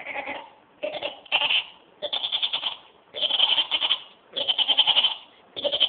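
A man imitating a donkey with bleating, bray-like calls: about six short, rapidly pulsing cries in a row with brief gaps between them.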